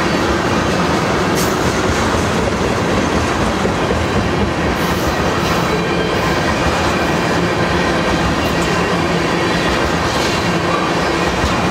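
Loaded railroad tank cars of a freight train rolling past close by: a steady rumble and clatter of steel wheels on the rails, with a few brief high-pitched hisses from the wheels.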